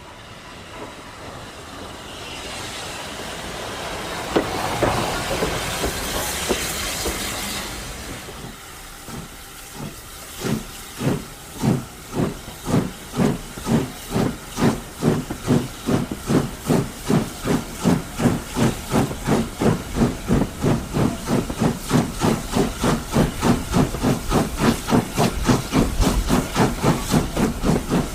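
Steam locomotive starting away: a loud hiss of steam for several seconds, then exhaust chuffs beginning about ten seconds in, slow at first and quickening steadily to about three a second as it picks up speed.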